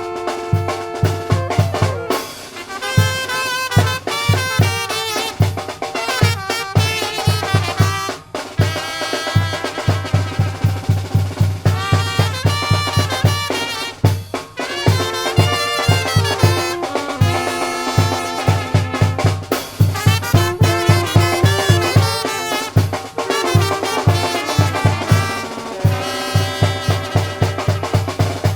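Zacatecan tamborazo band playing: trumpets and other brass carry the melody over a steady, pounding beat of the tambora bass drum and percussion.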